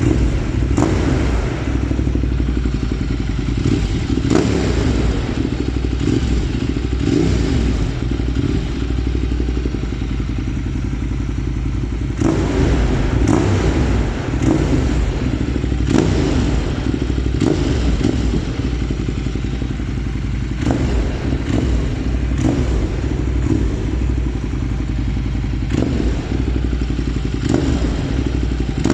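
Ducati Monster 1200S's 1198 cc Testastretta L-twin idling steadily while it warms up after a cold start, with brief rises in loudness now and then.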